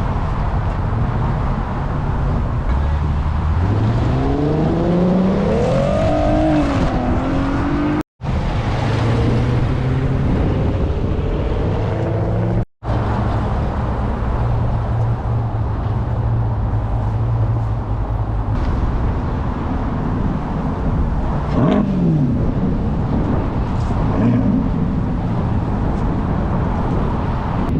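Car engine revving, its pitch climbing over several seconds, then running steadily, with a short falling engine note about two-thirds of the way in. The sound cuts out completely for an instant twice.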